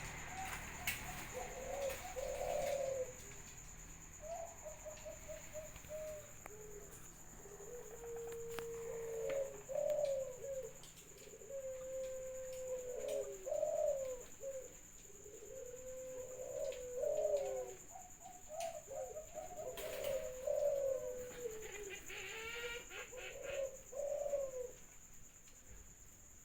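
A dove cooing over and over, in phrases of quick rolling notes and long drawn-out coos, played as a lure call to set other cooing doves singing. A faint steady high whine runs underneath.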